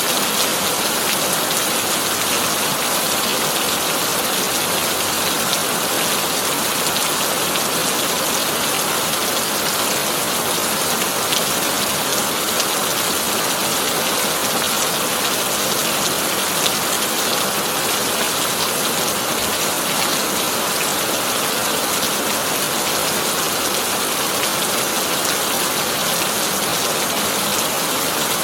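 Heavy rain falling steadily on a tin roof: a dense, even hiss with fine patter of drops.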